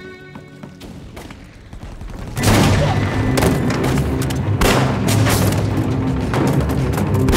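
Film battle sound effects: after a quiet stretch, dense gunfire and explosions break out suddenly about two and a half seconds in, over a dramatic music score.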